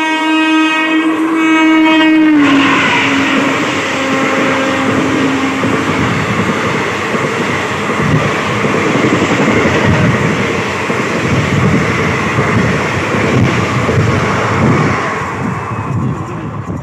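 Passing train sounding its horn: one long multi-tone blast that drops in pitch about two seconds in as the train goes by, then the loud rumble of the carriages with wheels clattering over the rail joints, easing off near the end.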